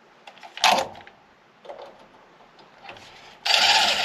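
Soft handling clicks and a short clatter early on, then a power drill starts about three and a half seconds in and runs at full speed, drilling a hole in a bracket.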